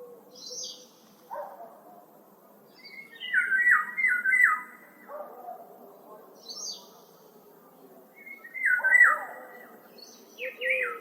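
Woodland songbirds singing: a phrase of quick, sharply falling whistled notes about three to four seconds in, repeated shortly before the end, with short higher notes in between. Underneath is a faint steady hiss of wind in the trees.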